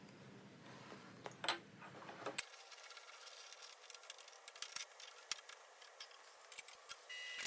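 Faint, scattered light clicks and clinks of small hard objects, irregularly spaced, over a light hiss.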